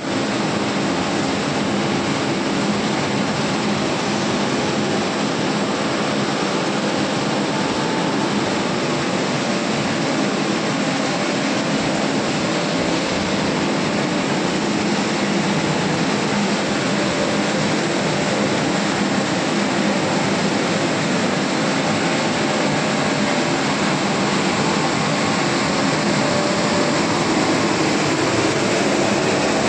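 Soya chunk processing line running: loud, steady, unbroken machinery noise.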